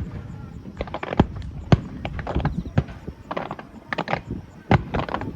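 Aerial fireworks shells bursting: several sharp bangs at uneven intervals, with scattered crackle between them.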